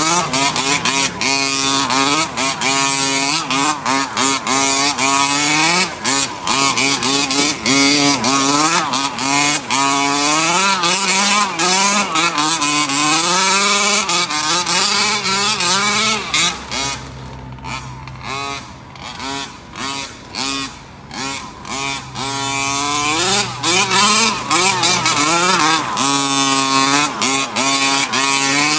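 Small two-stroke gas engine of a Rovan RF5 1/5-scale RC car with a Dominator tuned pipe, revving up and down repeatedly as the car is driven. It drops quieter and lower for several seconds about two-thirds of the way through, then revs hard again.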